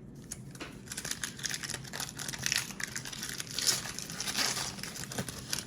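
Foil wrapper of a trading card pack being torn open and crinkled, a dense run of crackling that is busiest in the middle.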